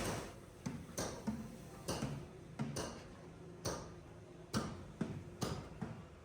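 A series of sharp, light clicks or taps, a little less than one a second and not quite regular, over a faint low hum.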